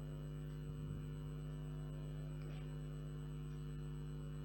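Steady electrical mains hum, one unchanging low buzz with its overtones, and nothing else clearly above it.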